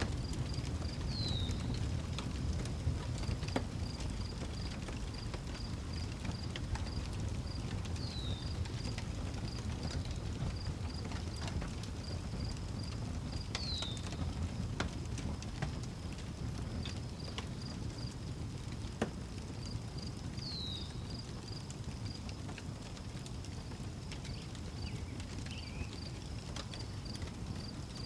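Wood fire crackling with scattered sharp pops over a low steady rumble. A cricket chirps in an even, rapid pulse, and a bird gives a short falling whistle four times, about every six seconds.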